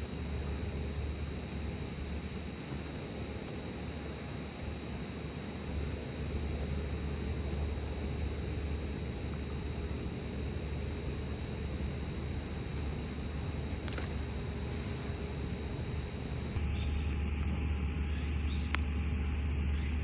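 Autumn crickets and other insects singing in steady high-pitched trills over a steady low hum, with a couple of light clicks in the second half.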